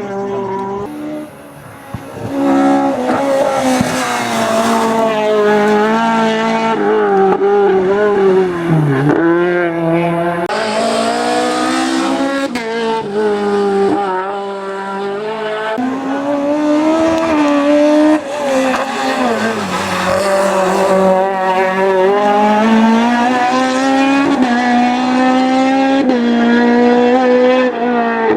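VW Scirocco hillclimb car's four-cylinder engine pulling hard at high revs, the pitch climbing and then dropping back again and again through gear changes, with a deep dip in revs about nine seconds in.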